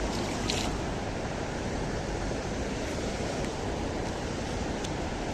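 Steady rush of flowing river water, with a brief faint scratch about half a second in.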